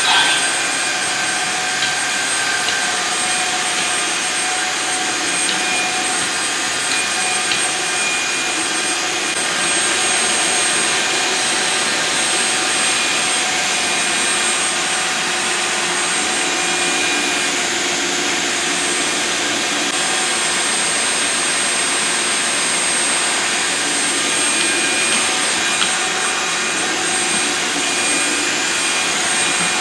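Tineco S6 Floor One Stretch wet-dry floor washer running steadily: a rush of suction air with a high, steady motor whine.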